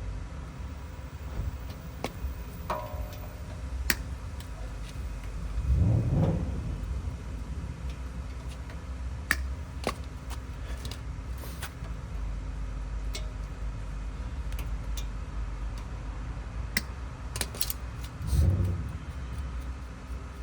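Scattered sharp metallic clicks and clinks of tools and parts during work on a truck's front suspension, over a steady low rumble. Two brief, louder low swells come about six and eighteen seconds in.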